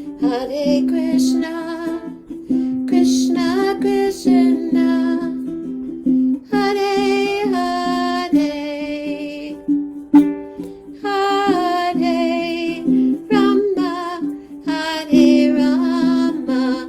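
Kirtan devotional music: melodic phrases lasting a few seconds each, with sliding, wavering notes, over a steady low drone.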